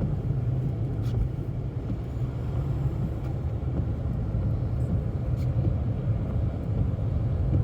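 Steady low road and engine rumble heard inside a moving car's cabin, with a few faint ticks.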